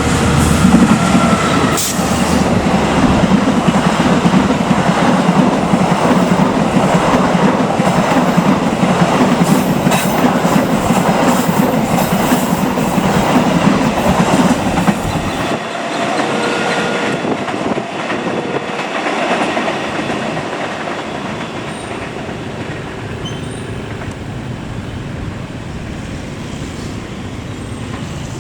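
Train passing close by with its wheels clattering over the rail joints, the end of a horn note sounding in the first second or two. About fifteen seconds in, the train noise drops away and leaves a steady hiss of heavy rain.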